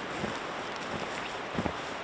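Wind noise on the microphone with a few soft footsteps in snow, the clearest a little past halfway.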